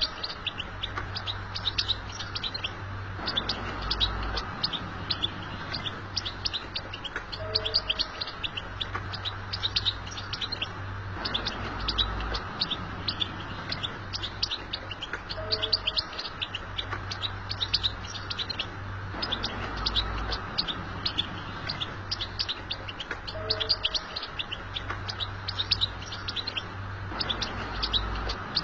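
European goldfinch song: rapid, high twittering chirps and trills, with the same passage coming round again about every eight seconds, over a steady low hum.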